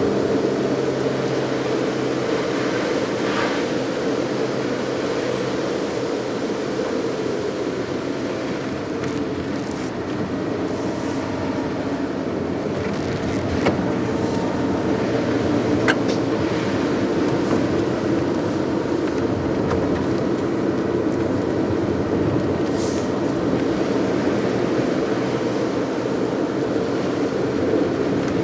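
Car driving steadily, with a constant engine hum and tyre and road noise, and a couple of faint ticks around the middle.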